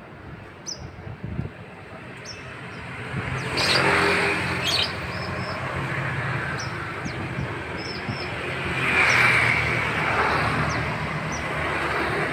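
Road vehicles passing one after another, each swelling up and fading: about 4 seconds in, about 9 seconds in, and again at the end. Through them come short, high chirps from a young prinia, scattered singly and in small runs.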